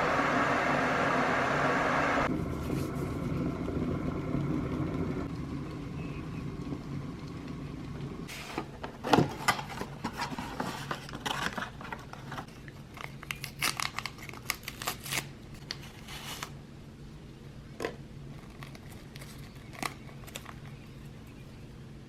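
Kitchen handling sounds: a steady rush that cuts off about two seconds in, then a low hum under a run of sharp clicks, taps and light knocks of objects being handled, thinning out after about sixteen seconds.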